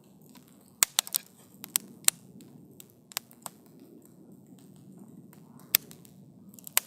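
Campfire crackling: burning wood gives about ten sharp, irregular pops and snaps over a steady low rush of flame.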